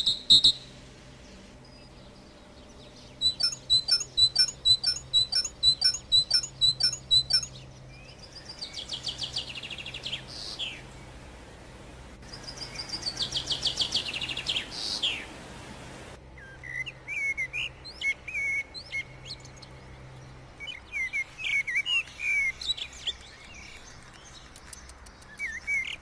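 Songbird calls in separate phrases: a run of evenly repeated high chirps, two buzzy trills that each end in a falling sweep, then a string of varied short chirps.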